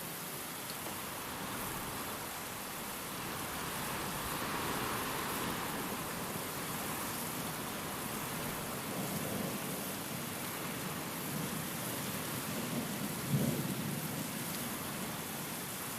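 Steady rain with wind, with a low rumble of distant thunder building in the second half and peaking briefly near the end.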